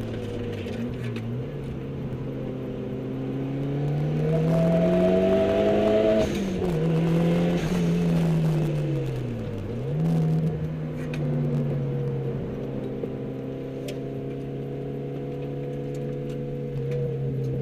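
Mitsubishi Lancer Evolution's turbocharged 2.0-litre four-cylinder engine heard from inside the cabin under hard track driving. It pulls up through the revs for about six seconds and drops briefly at a gear change. It falls away under braking a little before halfway through, then picks up again and holds steady revs.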